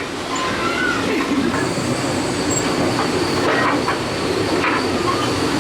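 Passenger train rolling along the track, a steady rumble and clatter of wheels on rails heard from aboard a railroad car.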